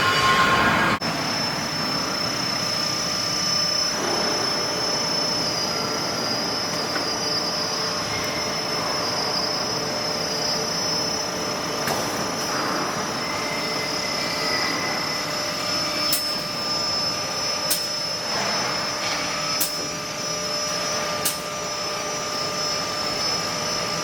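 Leabon SG 612J six-sided CNC drilling machine running while it processes a furniture panel: steady machine noise with a high whine. Several sharp clicks come in the second half.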